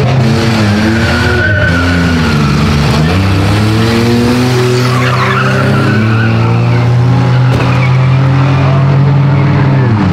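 Demolition drag racing car engines revving up and down, then one held at steady revs for several seconds, with a brief tyre screech about halfway through.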